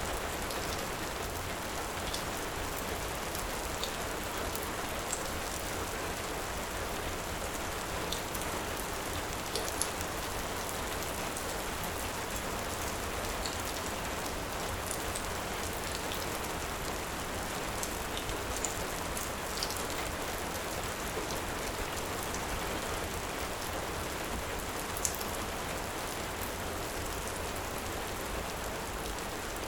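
Heavy rain falling in a steady hiss, with a wood fire crackling in scattered faint, sharp pops.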